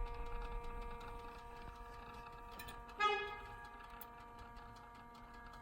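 BMW F10 M5 ticking rapidly and evenly after engine shutdown, several ticks a second over a faint steady hum; the owner finds the ticking unusual. About three seconds in, a short pitched tone sounds once and fades quickly.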